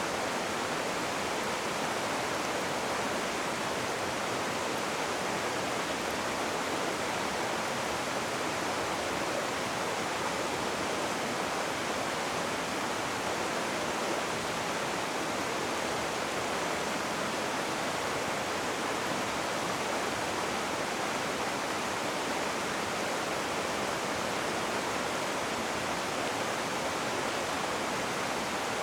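Rushing river water, a steady even roar with no breaks or changes.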